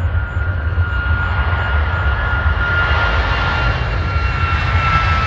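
Jet airliner's turbofan engines running at high power, a loud rushing rumble with a thin steady whine that sinks slightly in pitch and builds a little toward the end.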